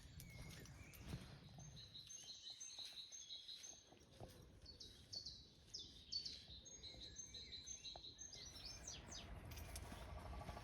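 Faint birdsong: short, high notes repeated over and over, with a quicker run of notes near the end.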